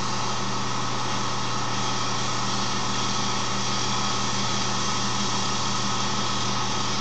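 Wood lathe running steadily with its motor humming, while a sponge sanding pad rubs against the spinning wooden handle to smooth its grooves.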